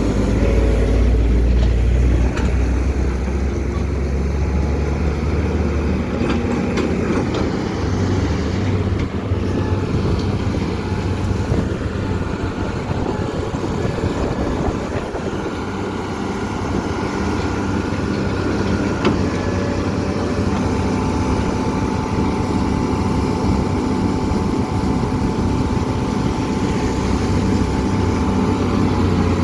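Hydraulic excavator's diesel engine running steadily with a low rumble, loudest at the start and easing off briefly midway. A thin, steady higher whine joins in the second half.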